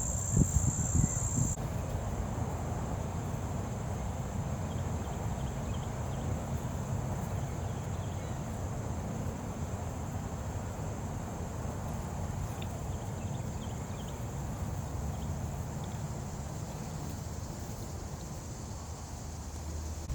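Insects, such as late-summer crickets, trilling in one steady high band, louder for about the first second and a half, over a steady low rumble.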